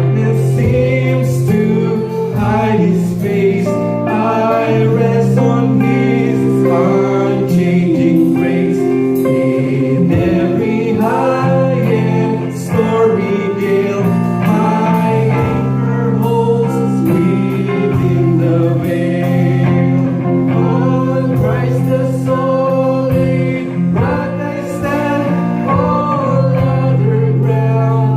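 Church congregation singing a hymn together with instrumental accompaniment, including guitar.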